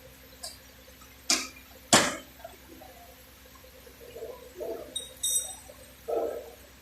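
Sharp knocks of work on metal: three in the first two seconds, the third the loudest, then softer dull knocks and a short ringing metallic clink about five seconds in.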